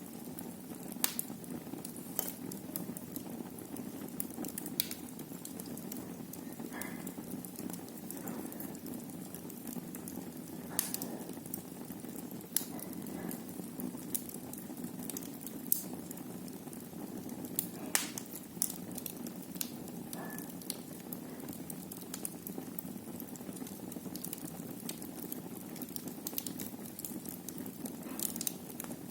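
Wood fire burning in a fireplace: a steady low rush of flames with sharp pops and crackles every few seconds, and a few brief, faint high whistles.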